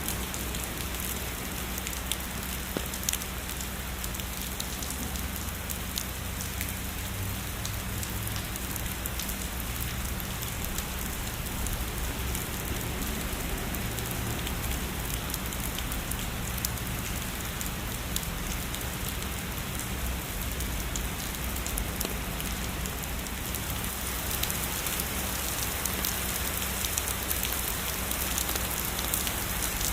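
Steady heavy rainfall, a continuous hiss with many individual drops ticking sharply through it.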